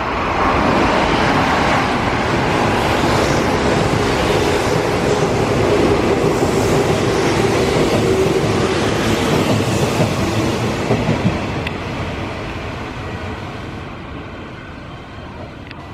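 Hanshin 8000 series train running through a station without stopping: a loud, steady rush of wheels on rail that fades over the last few seconds as the train draws away.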